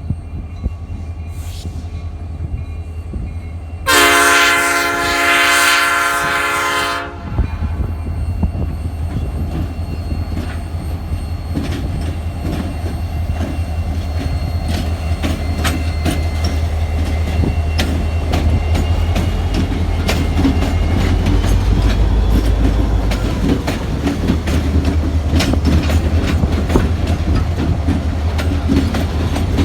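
Diesel locomotive horn sounding one long, loud chord of several tones for about three seconds. Then the locomotives' diesel engines rumble steadily as they roll by, wheels clicking over the rail joints.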